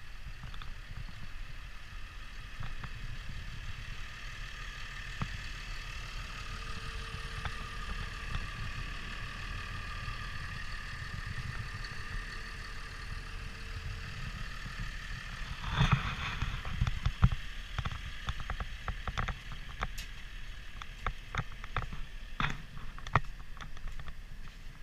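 Caterpillar D6K2 dozer's diesel engine running steadily, a low rumble with a higher whine over it. About sixteen seconds in a burst of clanking starts, and irregular sharp knocks follow.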